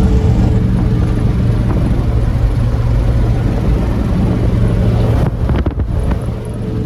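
A vehicle engine running steadily with road noise, and wind on the microphone; the level dips briefly about five and a half seconds in.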